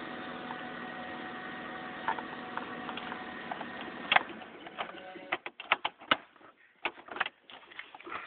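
Car engine idling steadily. A sharp click comes about four seconds in, then the running sound drops away and a string of irregular clicks and knocks follows.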